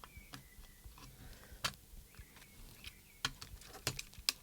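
Scattered small clicks and taps from the plastic case and parts of a radio control transmitter being handled and fitted together during reassembly, with a few sharper clicks in the second half.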